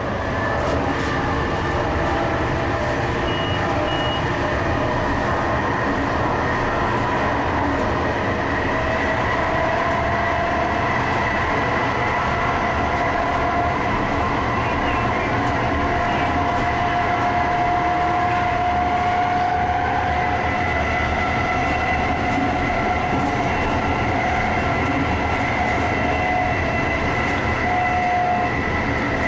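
TRAX light-rail train running, heard from inside the car: a steady rumble with a high whine from the running gear, which rises slightly in pitch through the middle.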